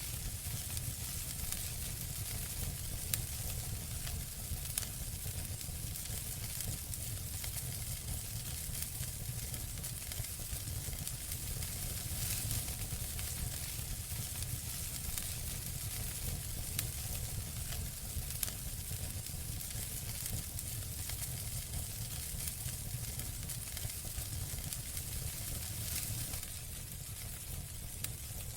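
Campfire burning, with a steady hiss, frequent small crackles and pops, and a low rumble underneath; it eases a little near the end.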